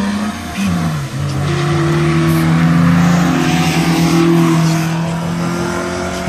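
Car engine revving hard under full acceleration in a street race. Its pitch drops at a gear change about a second in, then climbs again and holds high for several seconds before easing off near the end.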